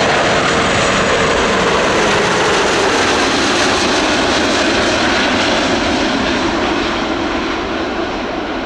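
Airbus A330-300 twinjet landing close by: a loud, steady jet-engine roar with a faint tone sinking slightly in pitch as it passes, then slowly fading near the end.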